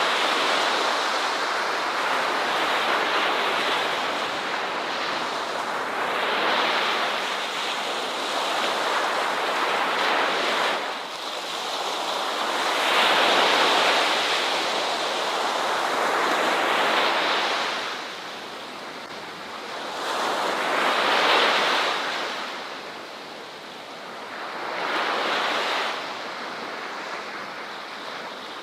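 Ocean waves breaking on a beach, a continuous hiss of surf that swells and falls back in slow surges every few seconds.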